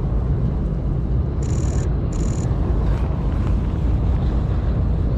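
Blizzard wind buffeting the microphone in a steady low rumble. About a second and a half in come two short bursts of rapid high-pitched clicking, typical of a camera shutter firing in continuous burst mode.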